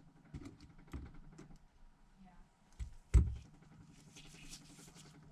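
Small hand tools clicking and tapping on a workbench while screws are removed from a phone, with one sharp knock about three seconds in and a brief soft rustle shortly after.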